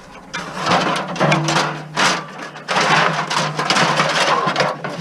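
Clattering and scraping of scrap items being moved and shifted around, in a rapid series of irregular noisy knocks and scrapes.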